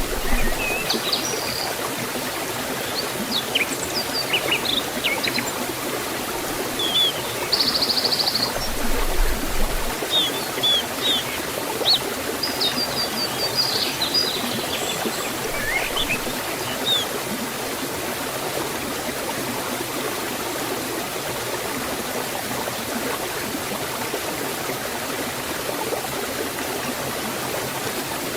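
Waterfall water flowing steadily in an even rush. Birds chirp and twitter briefly over it during roughly the first half, then the water goes on alone.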